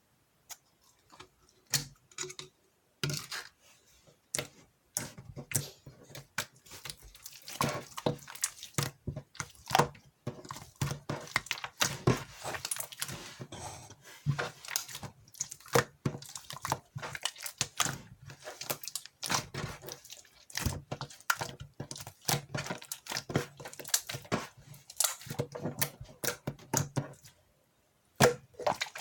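Hands squeezing and poking clear slime: a fast, irregular run of sticky clicks and pops.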